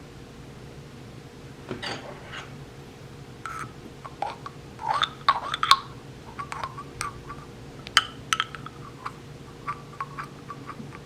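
Dishes and utensils being handled: a scattering of light clinks, taps and knocks, busiest a few seconds in, over a steady low hum.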